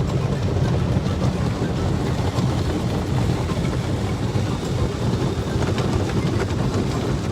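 Steady low rumble of automatic car-wash machinery, with faint scattered ticks over it.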